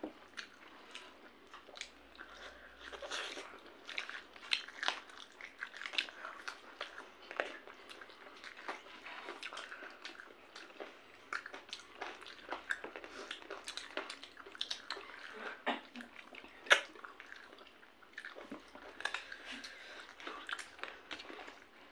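Close-up mouth sounds of two people eating chicken in gravy with rice by hand: a steady run of small wet chewing clicks and smacks, with one sharper smack about three quarters of the way through.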